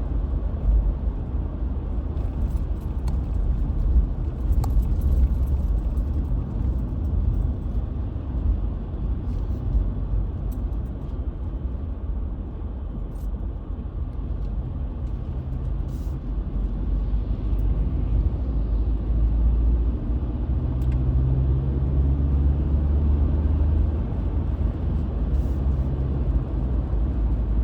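Steady low road and tyre rumble of a 2020 Ford Ranger XLT pickup being driven, heard from inside the cabin. The engine's hum stands out more in the second half, and there are a few faint ticks.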